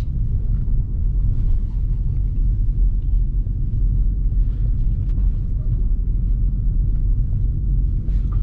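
Steady low rumble of a Dodge Scat Pack's 6.4-litre HEMI V8 car driving at an even pace on a snowy road.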